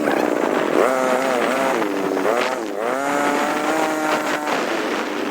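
Motorcycle engine running on the road, its pitch rising and falling several times as it speeds up and eases off.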